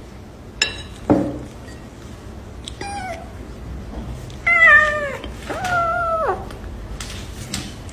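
Domestic cat meowing: one short meow about three seconds in, then two longer meows that slide down in pitch, with a couple of small clicks before them.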